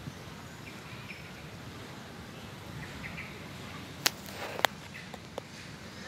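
Outdoor background noise with faint bird chirps. Two sharp clicks about half a second apart come a little after the middle, followed by a couple of softer clicks.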